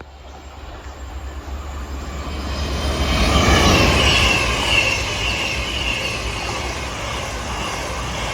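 CrossCountry Voyager diesel-electric multiple units (a Class 221 coupled to a Class 220) passing through the station at speed. The sound grows louder over the first few seconds and is loudest around the middle, then runs on steadily as the train goes by.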